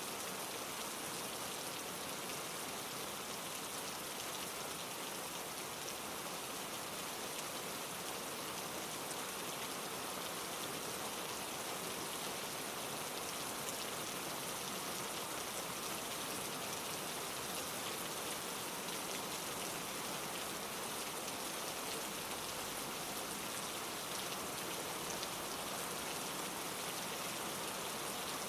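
Steady rain falling, with a fine patter of drops on leaves.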